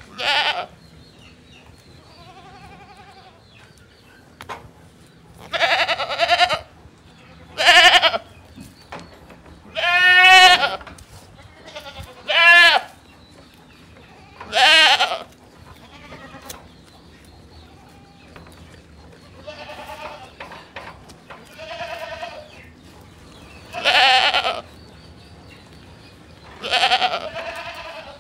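Goats bleating, about a dozen separate wavering calls each under a second long, some loud and some fainter, with short pauses between them.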